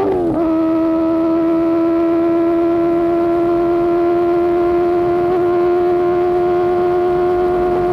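Superbike engine running at high revs through an Austin Racing GP1R aftermarket exhaust, a loud, steady, high-pitched note. An upshift a fraction of a second in drops the pitch, and it then holds steady at cruising speed.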